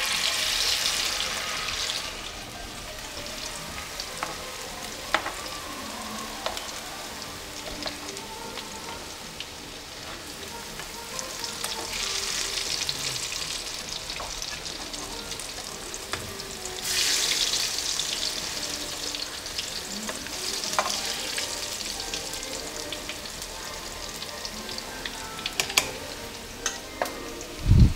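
Shami patties of ground meat and chickpea frying in hot oil in a pan, a steady sizzle that surges louder three times. Scattered light clicks of a utensil against the pan, and a thump near the end.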